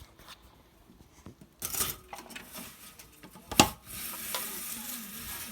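Fireworks: a rushing burst about a second and a half in, a sharp bang about two seconds later, then a sustained crackling hiss.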